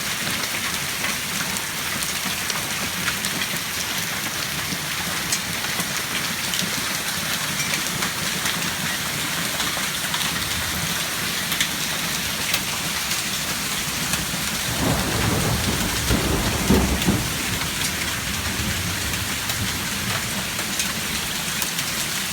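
Heavy rain and hail pelting down in a steady hiss, with scattered sharp ticks of stones striking. A rumble of thunder swells about two-thirds of the way through and dies away after a couple of seconds.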